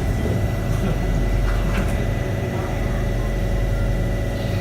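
Cabin noise inside a Kawasaki Heavy Industries C151 MRT train: a steady low rumble with a thin steady high tone above it.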